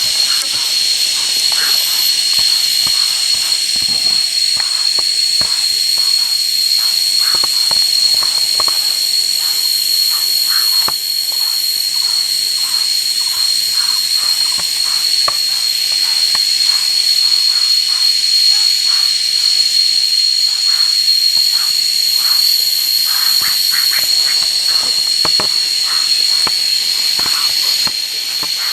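Loud, steady insect chorus in jungle, an unbroken high buzz, with many small clicks and rustles beneath it.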